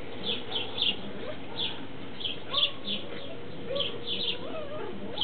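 Small birds chirping over and over, short high chirps coming every half second or so, with a few softer, lower gliding calls among them.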